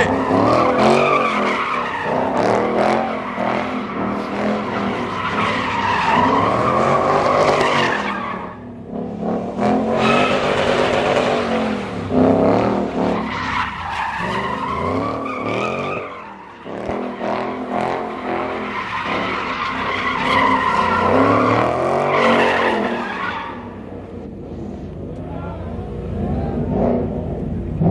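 Muscle car engine revving hard, its pitch rising and falling over and over, with tyres squealing as the car spins donuts and burnouts; the noise dips briefly a few times.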